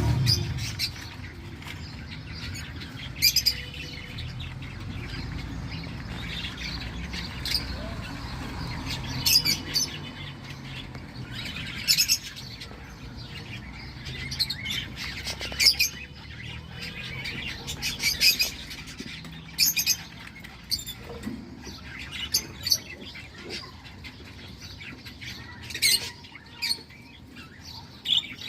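Cockatiels giving short, sharp chirps and squawks at irregular intervals, over a low rumble that is strongest at the start.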